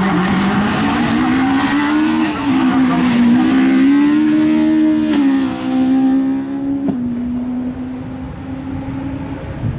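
Hill-climb race car's engine revving hard at the start line, then pulling away with its pitch climbing and dipping. Its sound fades as it leaves, from about six seconds in.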